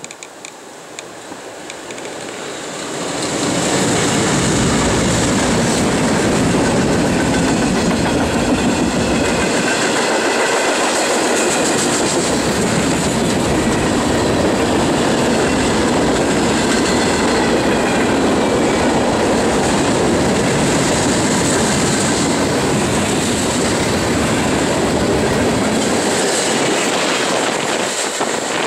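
CSX freight train passing close by. The sound grows over the first few seconds as the diesel locomotives close in, then stays loud and steady as the hopper and tank cars roll past with their wheels running over the rails, easing off near the end.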